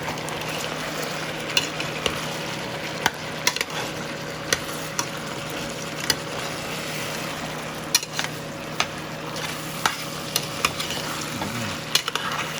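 Seasoned chicken sizzling in a pot while being stirred, the spoon knocking against the pot about once a second at uneven intervals.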